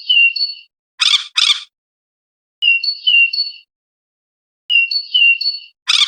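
Robin singing: a short phrase of clear, high whistled notes repeated about every two seconds, with short harsh rasping calls between the phrases, two about a second in and one near the end.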